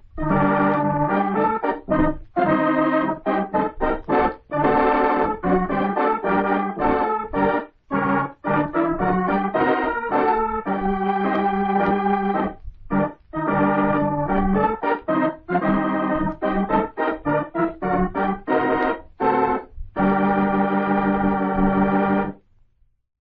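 Organ music playing a run of short and held chords, closing on a long held chord that stops about three seconds before the end.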